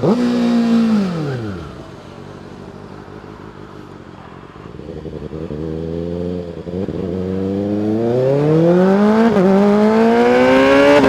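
Kawasaki ZX-6R 636 motorcycle's inline-four engine revving down steeply as the throttle closes, running low and quiet for a few seconds, then pulling hard up through the gears. The revs dip at two upshifts and climb again after each.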